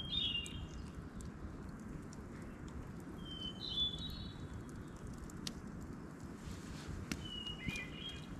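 A songbird singing the same short phrase three times, a few seconds apart, each a clear note that breaks into a quick trill. A steady low background noise and scattered light clicks run under it.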